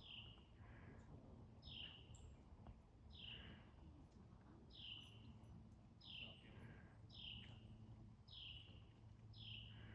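A songbird repeating a short, high, down-slurred whistle about once a second, faint over low background hum.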